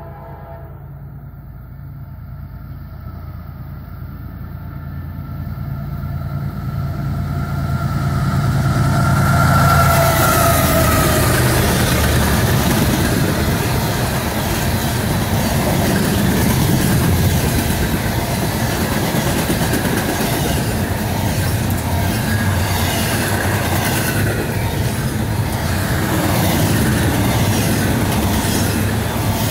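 A CSX intermodal freight train led by GE ES44AH diesel locomotives comes up and passes close by. The noise builds over about ten seconds, and the locomotives' pitch drops as they go by. After that comes a steady heavy rumble of container and boxcars rolling past, with wheels clacking over rail joints.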